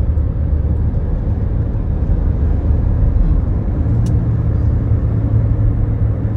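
Road and engine noise heard from inside a moving car: a steady low rumble, with a steadier low hum setting in about four seconds in and a single brief tick at about the same moment.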